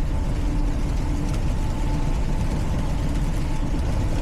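Steady drone of a semi truck's diesel engine with road noise, heard inside the cab while cruising at highway speed.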